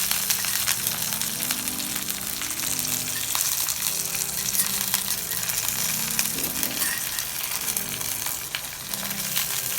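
Meat-topped tortillas shallow-frying in hot oil: a steady sizzle with many small pops of spattering oil.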